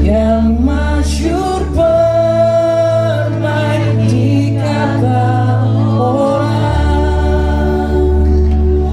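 A live band performs a slow song, with several voices singing long held notes together over sustained bass notes.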